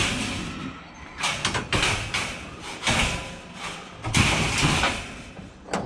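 Scrap metal items being dragged and shifted, a run of scraping and clattering noises, loudest about four seconds in.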